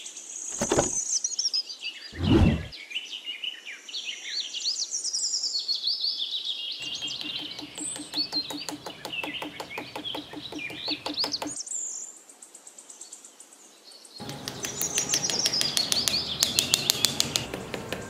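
Birds chirping and singing in many short, quick calls. A fast, even rattle of clicks runs underneath in the middle and again near the end, and two short loud noises come in the first few seconds.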